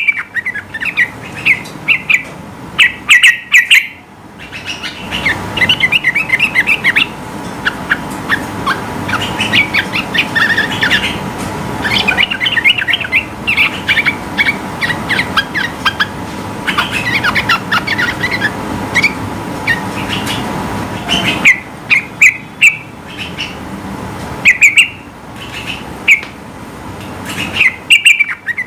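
Yellow-vented bulbul (trucukan) singing in rapid runs of short, sharp chirping notes, phrase after phrase with brief gaps. Under the middle part of the song lies a low background rush.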